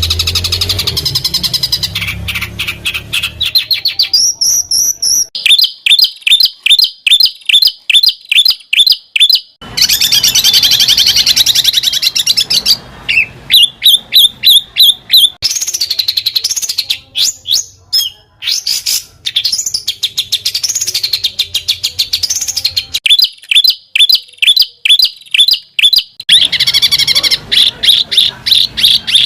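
Songbird singing loud, varied phrases made of rapid runs of sharp repeated notes and fast trills, with some rising and falling whistled phrases. A low hum sits under the first few seconds and returns near the end.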